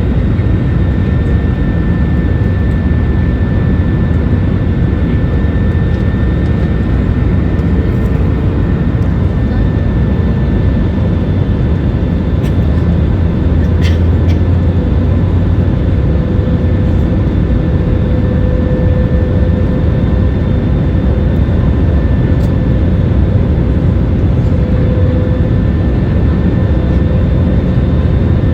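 Passenger airliner cabin noise: a steady, loud rush of engine and air noise with a faint steady whine over it, and a single click about halfway through.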